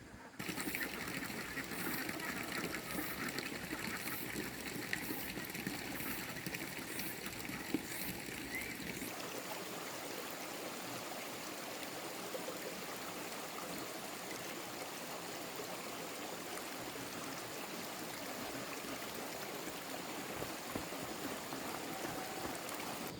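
Steady noise of running water, with faint regular ticks about once a second for the first nine seconds; the sound changes to a smoother, even rush about nine seconds in.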